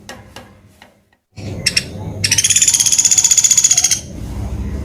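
A pelatuk beras woodpecker calling: a couple of short sharp notes, then a fast, even, high rattling trill of about ten notes a second that starts about two seconds in and lasts nearly two seconds.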